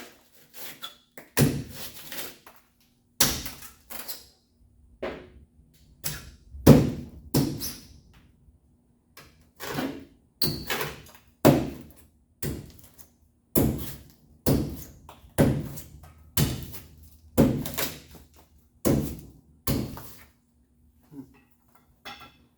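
Hammer blows, roughly one a second at an uneven pace, pounding old hardened spray-foam insulation out from inside a 1936 Chevrolet's rusted body panel. Each blow is a sharp knock. The blows stop about 20 seconds in, leaving a few faint taps.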